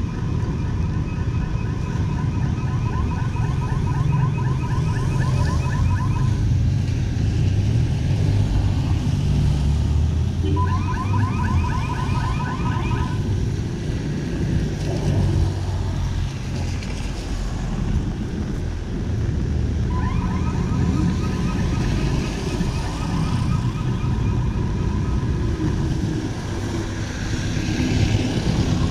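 Rapidly pulsed electronic beeping, like a car alarm, sounding in three spells (a long one at the start, a short one in the middle, a long one later), over the steady low rumble of street traffic.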